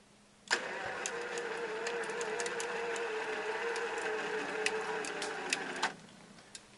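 Electric winch motor whirring steadily for about five seconds with scattered clicks, starting and stopping abruptly.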